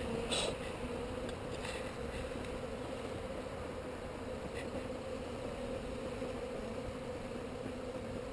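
Honeybees from an opened hive humming in a steady drone, with a few faint clicks in the first few seconds.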